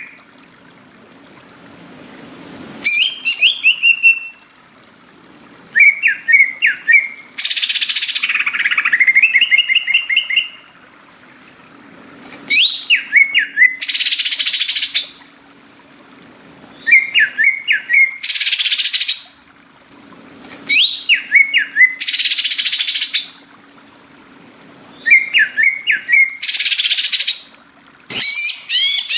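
Cucak ijo (green leafbird) singing loudly in repeated bouts every few seconds: rapid chirping, whistled notes that slide up and down, alternating with harsh hissing notes about a second long, with short pauses between bouts.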